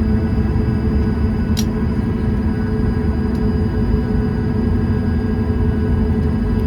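Steady low drone inside the cabin of a Boeing 737 MAX 8, its CFM LEAP-1B engines running at low power, with a constant hum in it. A short sharp click about a second and a half in, and a fainter one a couple of seconds later.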